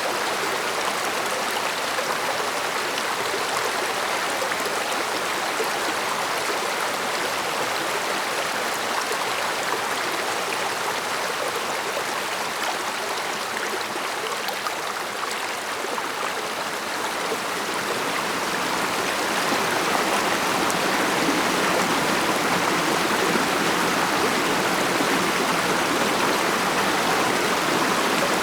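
Mountain stream flowing over rocks: a steady babbling rush of water that grows a little louder about two-thirds of the way through.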